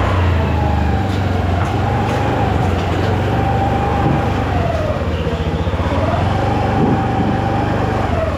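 Engine running steadily, its pitch sagging and recovering twice as under changing load.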